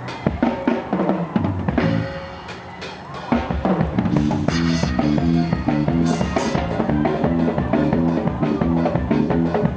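Live worship band playing: loose drum-kit hits and fills at first, then about three seconds in the full band comes in with a steady beat and a repeating riff.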